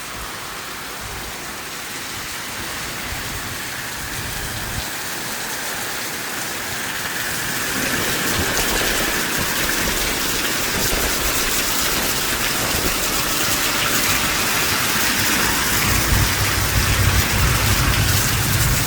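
Heavy rain pouring down in a storm, a steady hiss that grows heavier about eight seconds in. A low rumble joins near the end.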